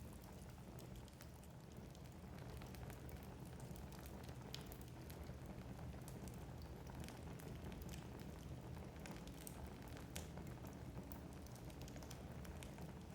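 Wood fire burning in a fireplace: a low steady rumble of flames with irregular crackles and small pops from the burning logs.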